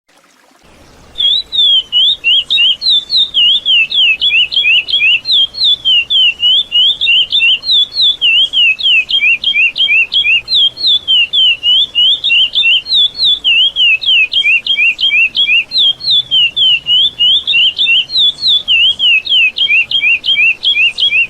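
Curió (chestnut-bellied seed finch) singing the classic 'praia clássico' song: a long, unbroken run of quick whistled notes slurring up and down, starting about a second in.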